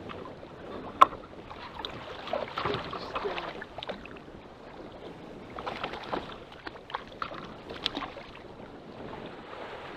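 Water slapping and splashing against a small fishing boat's hull in rough water, with scattered knocks and clicks of gear on the boat. A single sharp knock about a second in is the loudest sound.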